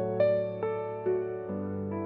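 Slow, gentle piano playing the instrumental intro of a pop ballad, a new note struck about every half second over sustained low notes.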